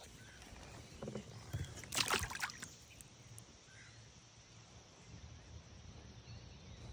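Short splashy, rustling noises of water and handling around a kayak, the loudest a brief burst about two seconds in, over a low steady outdoor background.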